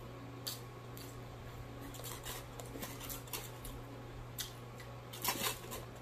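Close-up eating sounds of a person chewing fried catfish with the mouth: scattered small wet clicks, with a brief denser cluster of clicks and rustling a little after five seconds as he shifts. A steady low hum runs underneath.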